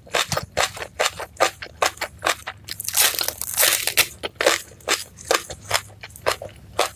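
Close-up crisp crunching of raw green onion stalks being bitten and chewed, several sharp crunches a second.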